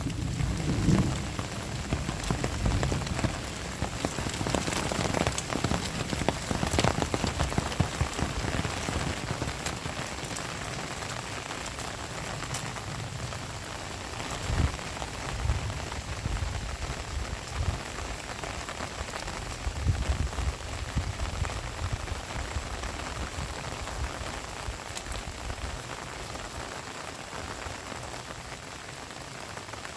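Heavy rain falling steadily, a dense hiss of drops striking surfaces, with occasional low thuds mixed in. The rain is a little louder in the first few seconds, then eases slightly.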